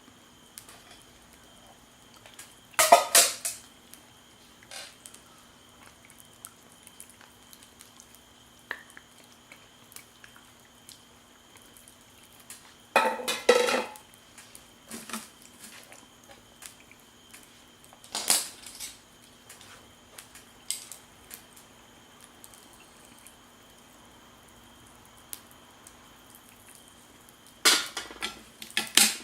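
Utensils clattering against dishes and cookware in four short bursts, with quiet stretches between them.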